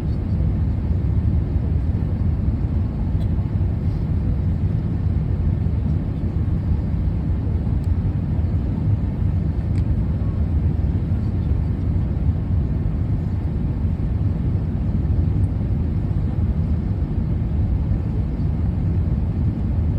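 Steady, unchanging low rumble of a vehicle in motion, with no distinct events.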